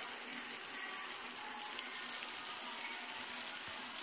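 Onion-tomato masala paste sizzling steadily in oil in a kadai, with a faint scattered crackle, cooked down until the oil separates.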